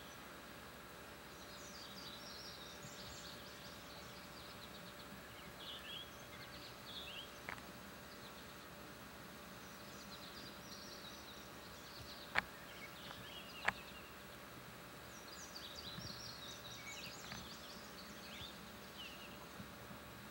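Faint birds chirping in short bursts over a steady low hiss. Two sharp clicks a second and a half apart past the middle are the loudest sounds, with a fainter click before them.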